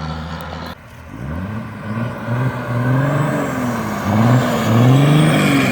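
5.9 Cummins inline-six turbodiesel through a 5-inch straight pipe, accelerating hard: the engine pitch climbs and falls again and again as it revs up and shifts, louder after about four seconds. A brief dip in the sound comes just under a second in, before the pulls begin.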